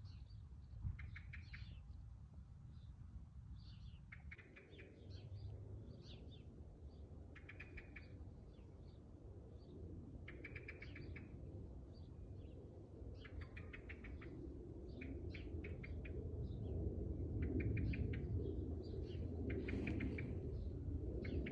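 Songbirds singing: a short, rapid trill repeated every two to three seconds, with other scattered chirps between. A low rumble underneath grows louder in the second half.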